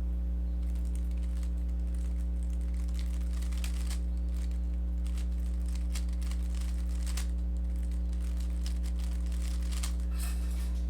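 Plastic Rubik's cube being turned through algorithms: faint clicking and rattling of the layers in scattered quick bursts, over a steady low electrical hum that is the loudest thing throughout.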